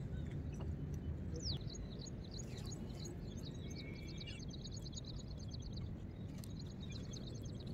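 Small birds calling: a single falling whistle about a second and a half in, then fast strings of high chirps, over a steady low outdoor rumble.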